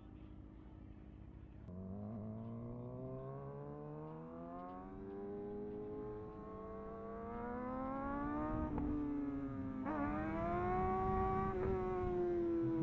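A low steady engine drone. About two seconds in, a vehicle engine starts accelerating, its pitch climbing and the sound getting louder. Its pitch drops sharply twice about two-thirds of the way in, then climbs again.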